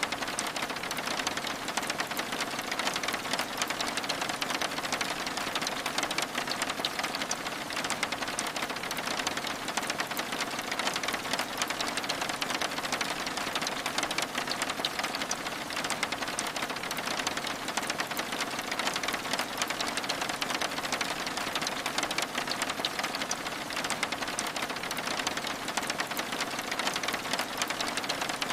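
Steady rain pattering against window glass, with a dense, fine crackling from a wood fire in a fireplace mixed in. The sound stays even throughout.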